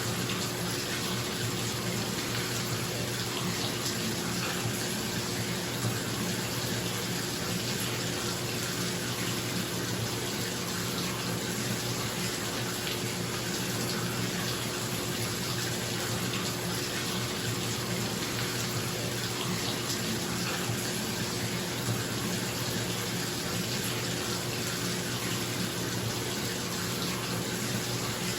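Bathtub tap running steadily into the tub, a constant rush of water, with a bathroom exhaust fan running underneath as a steady low hum.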